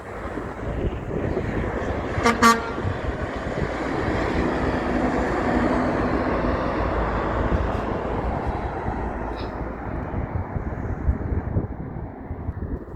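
A truck's horn gives a short blast about two seconds in, then a big truck passes by, its engine and tyre noise swelling to a peak midway and fading away.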